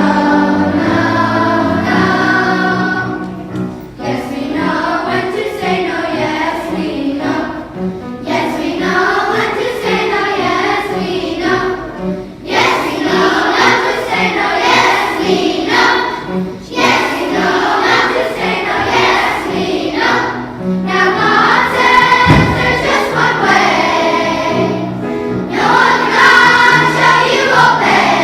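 Children's choir singing a song over instrumental accompaniment with a steady beat.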